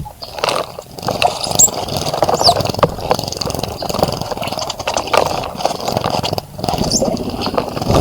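A bird bathing in a bird bath close to the microphone, fluttering its wings and splashing water in quick, irregular bursts. A few short high bird chirps sound over it.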